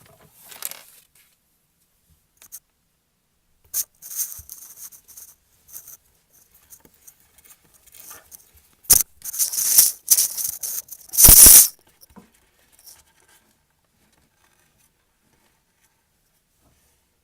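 A ferret scrabbling and rustling: irregular bursts of crisp scratching and crinkling, loudest in a cluster a little past the middle, then dying away.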